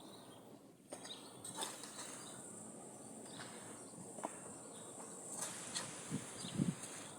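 Outdoor ambience: a steady high-pitched insect chirring, with scattered light clicks and a few soft knocks.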